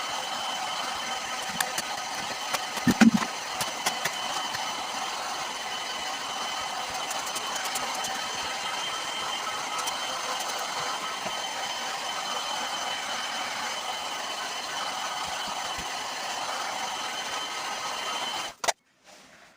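Electric heat gun blowing steadily with a whining fan, heating a deformed plastic radiator top tank to soften it back into shape, then switched off suddenly near the end. A few clicks and a knock come about three seconds in.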